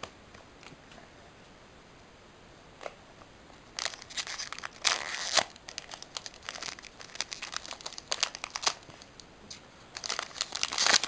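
Foil Pokémon booster pack wrapper crinkling and being torn open, starting about four seconds in and running as a busy crackle with sharp tearing peaks; before that only faint room tone and a single light click.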